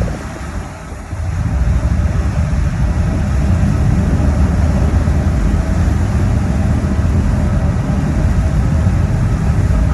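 Steady low engine rumble, with a brief dip in level about a second in.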